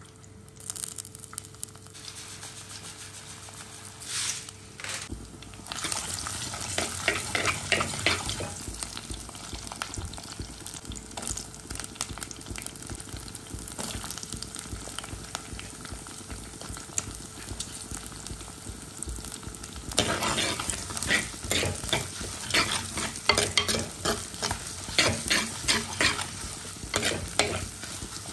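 Garlic, onion and green chillies frying in oil in an earthenware clay pot, a steady sizzle that starts about five seconds in. A steel ladle stirs and scrapes against the pot in bursts of clicks, the longest over the last eight seconds.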